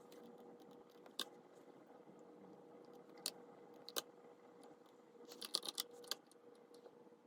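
Scattered light clicks and taps, with a quick cluster of them about five to six seconds in, over a faint steady hum.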